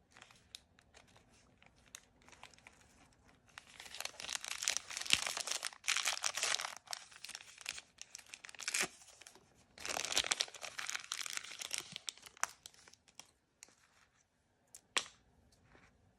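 Blind-bag packaging being torn open and crinkled by hand: soft scattered crackles, then two long stretches of loud tearing and crumpling, then a few single sharp clicks near the end.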